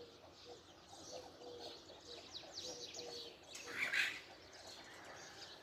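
Faint birdsong: many short high chirps, over a low repeated cooing from domestic pigeons.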